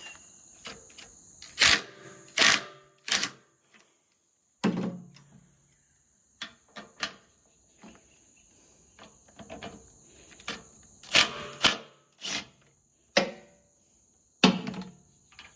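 Spanners clinking and knocking on the excavator's fuel valve fitting as different sizes are tried on it: irregular sharp metallic clicks and clanks with short pauses between. A steady high insect drone runs underneath.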